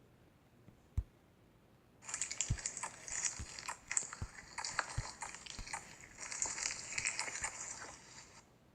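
Slime being squished and pressed by hand, making a run of crackling and small pops for about six seconds, after a single click about a second in.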